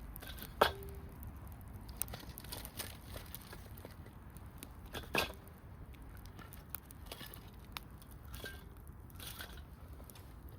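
Wood campfire crackling, with scattered sharp pops; the loudest pop comes just under a second in and another about five seconds in.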